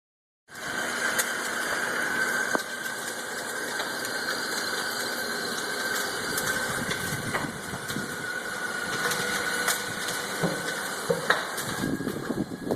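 A carpet-cleaning van on fire: a steady rushing, engine-like noise with a thin steady whine, broken by scattered sharp pops.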